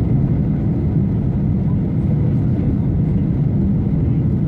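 Steady, loud cabin noise of a Boeing 737-800 in flight: a low roar from its CFM56-7B engines and the airflow past the fuselage, heard inside the cabin.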